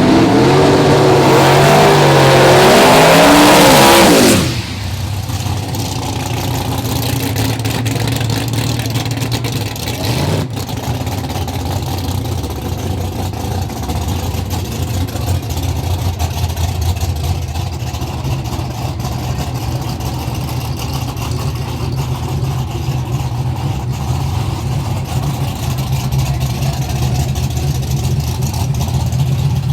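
Drag-racing truck engines revving hard over a loud hiss for about four seconds, then cutting off suddenly to a steady idling rumble, with a short throttle blip about ten seconds in.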